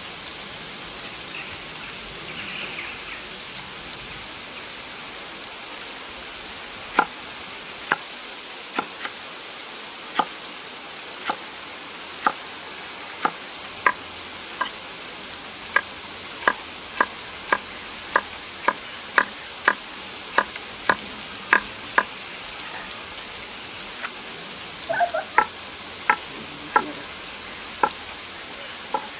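Steady hiss of rain, with a run of sharp knocks, about one or two a second, starting about seven seconds in.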